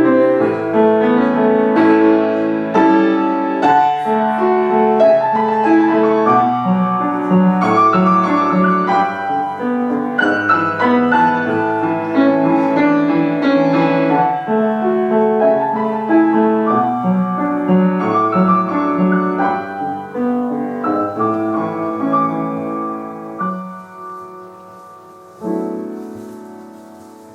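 Piano playing a piece; the music thins out near the end and closes with a last chord, struck about two seconds before the end, that rings away.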